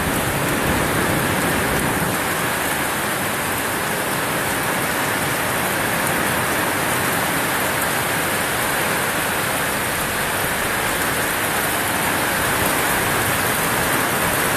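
Heavy thunderstorm rain pouring down steadily: a dense, even hiss.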